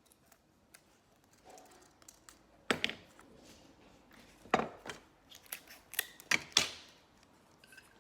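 Scissors snipping through paper: a few separate sharp cuts with small ticks and rustling between them.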